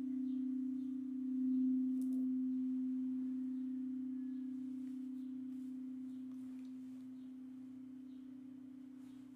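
Singing bowl ringing one low, pure sustained tone that swells about a second and a half in, then slowly fades.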